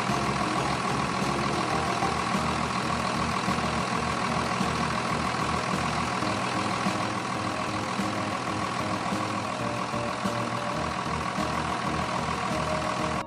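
A pulling tractor's engine idling steadily, with no revving or change in pitch.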